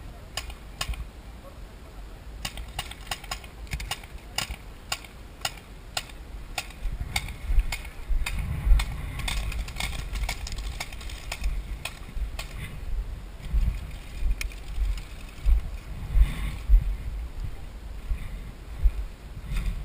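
Many short, sharp clicks and snaps, irregular and closely spaced in the first several seconds and sparser later, over a low, uneven rumble.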